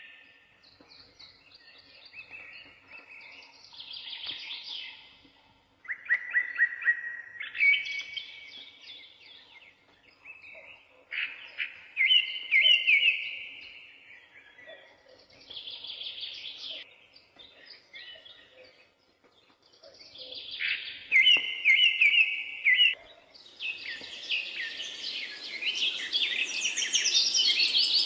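Songbirds singing in short chirped and trilled phrases, one every few seconds. Near the end the calls crowd together over a steady hiss.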